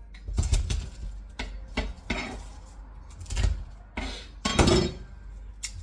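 Dishes and kitchen utensils clattering and knocking against each other in a string of irregular knocks, loudest a little past four and a half seconds in.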